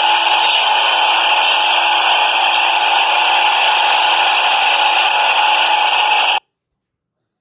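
Loud, steady running noise of a subway train that cuts off abruptly about six seconds in.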